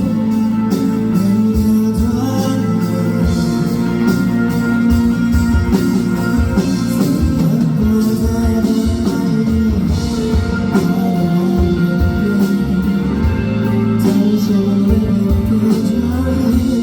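A rock song: a voice singing over guitar and drums.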